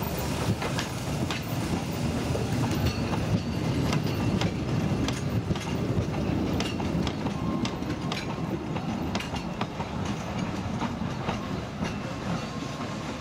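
Narrow-gauge train running past on the track: a steady rumble with frequent, irregular clicks of the wheels over the rail joints. A faint thin whine comes in about two-thirds of the way through.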